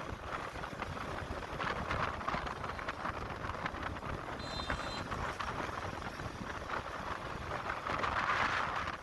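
Motorcycle riding along, its engine and road noise mixed with wind rushing over the microphone, swelling louder near the end.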